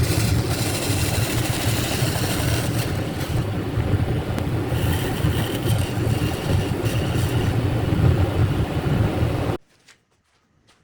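Woodworking power tool running steadily, a low hum under a broad hiss, cutting off abruptly about a second before the end.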